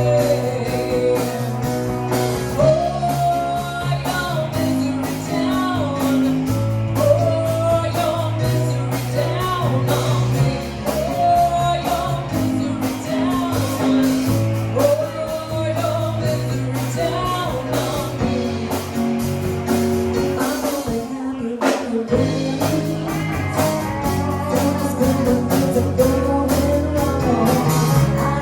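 Live rock band playing: drums, bass and guitar under a bending lead melody line. The band cuts out briefly about three-quarters of the way through, then comes back in.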